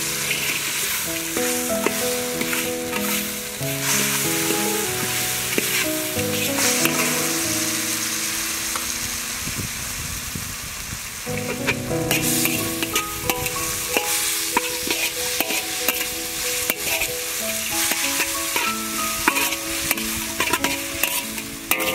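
Chopped ginger, chilies and shallots sizzling in hot oil in a steel wok, with a metal spatula repeatedly scraping and stirring against the pan. Background music plays over it, pausing briefly near the middle.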